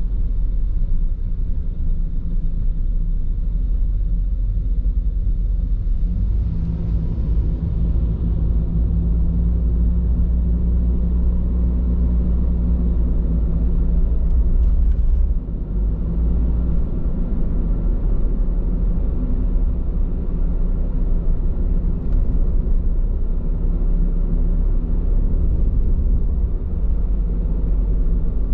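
Steady low road rumble of a car on the move, heard from inside the cabin: tyre roar and drivetrain noise from a car on Bridgestone Regno tyres. It swells a little about six seconds in and eases again about fifteen seconds in.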